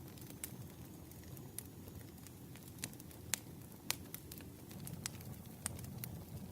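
Campfire crackling: a low steady rumble of burning wood with irregular sharp pops and snaps scattered through it.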